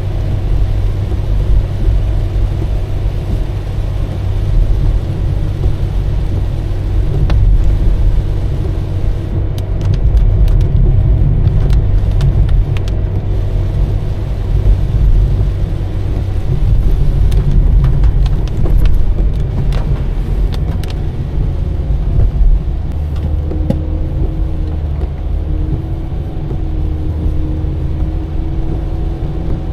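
Car driving on a wet road: a steady low rumble of engine and tyres. Scattered sharp clicks come through in the middle stretch, and a steady hum joins in over the last several seconds.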